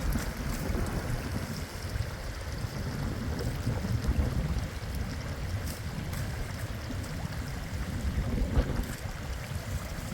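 Steady rushing of river water, with a low rumble of wind buffeting the microphone.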